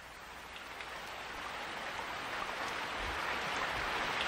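Rain sound effect fading in: a steady hiss of falling rain that grows louder, with a faint low rumble near the end.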